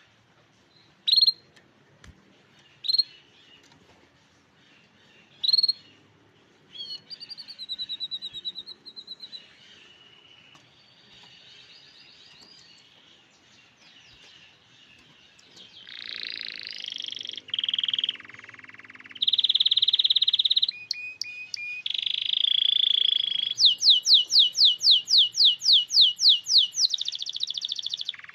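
Grey canary singing: three short rising chirps, then a long varied song of trills and buzzy phrases that grows louder partway through and ends in a fast trill of about four notes a second.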